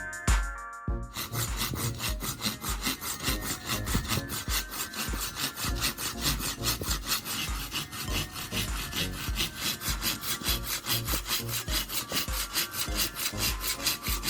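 Hand saw cutting through wood in quick, even back-and-forth strokes, starting about a second in.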